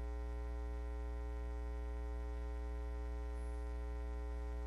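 Steady electrical mains hum with a ladder of overtones, unchanging throughout and with no other sound over it.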